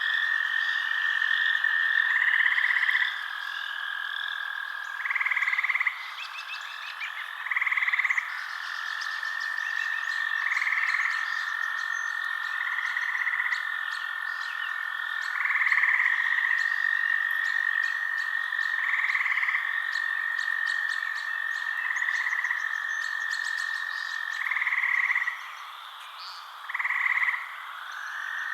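Night chorus of frogs: a steady high trill, with a louder call of about a second every two to three seconds and faint fast ticking higher up.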